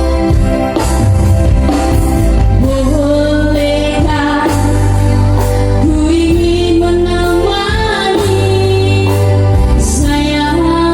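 A singer holding long, wavering notes over instrumental accompaniment with a steady low bass.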